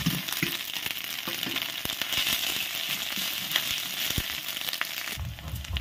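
Sliced onions with ginger and garlic paste sizzling in hot oil in a metal kadai, with scattered clicks and scrapes from the spatula stirring against the pan. Near the end the sizzle drops away and a low hum comes in.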